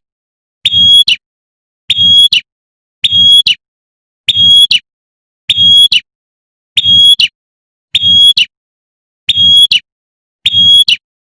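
Female prenjak (prinia) giving its sharp 'tembakan' call over and over, a short high call about every 1.2 seconds, nine times in a row. The call is the female calling to a male, looped as a lure.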